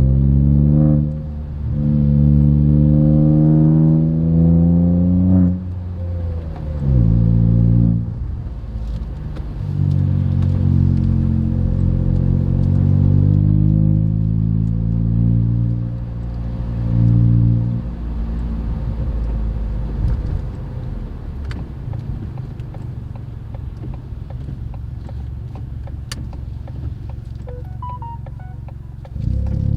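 Ford Fiesta Zetec S's 1.0 EcoBoost three-cylinder engine breathing through a Cobra cat-back performance exhaust, heard from inside the moving car. It accelerates through the gears, the pitch rising and then dropping at each change, and then settles to a lower, quieter steady drone for about the last ten seconds.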